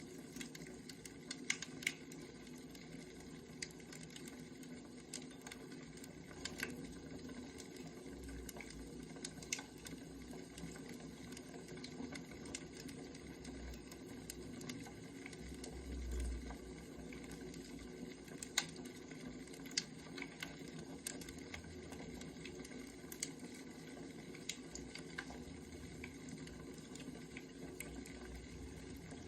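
Firewood burning, with irregular sharp crackles and pops over a steady low background.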